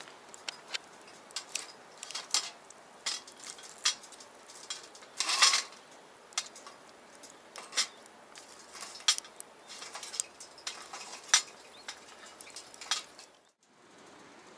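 Metal utensils clinking and scraping against a cast-iron skillet in irregular sharp knocks, with one longer, louder scrape about five seconds in, over a faint steady hiss. Near the end it cuts to a steady hiss alone.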